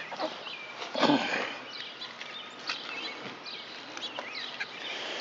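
Birds chirping in the background, short rising and falling calls, with a brief clatter about a second in from the door handle being worked into the door.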